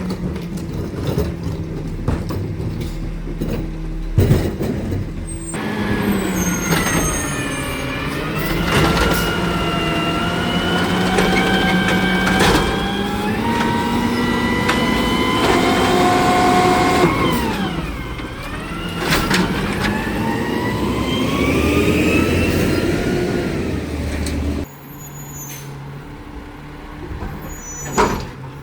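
Garbage truck running, first a steady idle with a few knocks. About five seconds in, the engine revs, its pitch rising and falling several times over almost twenty seconds as it drives the packing hydraulics, with metallic clanks. Near the end it drops suddenly to a quieter idle with one sharp knock.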